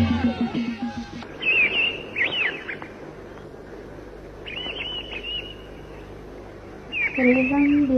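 Birds chirping in three short runs of quick, high up-and-down whistles over a faint background hiss. The tail of folk music with a steady drone dies away about a second in, and a woman's singing voice begins near the end.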